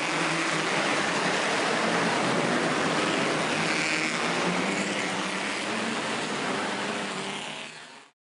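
Engines of 1950s racing sports cars running at the circuit, heard as a steady, noisy din with a faint low drone. It fades in at the start and fades out near the end.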